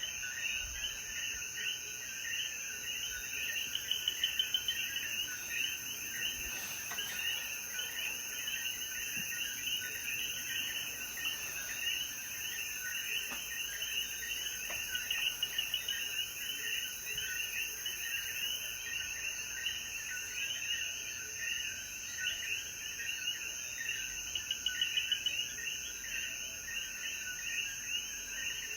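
Dense night chorus of many Puerto Rican coquí frogs calling over one another, with a steady high-pitched insect drone beneath. The chorus briefly swells louder a couple of times.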